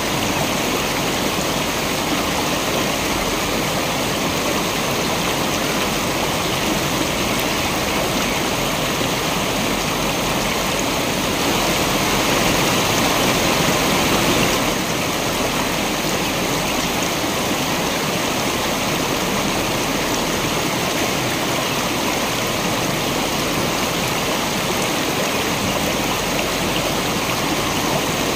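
A waterfall pouring steadily, an even rushing water noise. It swells slightly for about three seconds a little before the middle.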